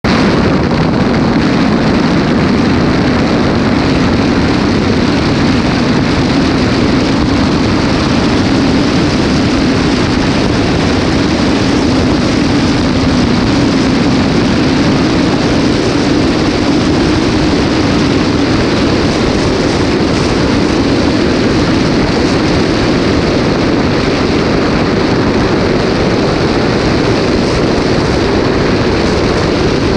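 Steady road and wind noise of a car driving at highway speed, an even rushing sound with a low hum underneath.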